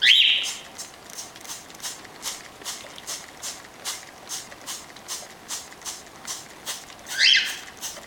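Cockatiel squawks, one right at the start and another about seven seconds in, each rising sharply in pitch, over an even run of short hissing squirts from a hand spray bottle, about two and a half a second.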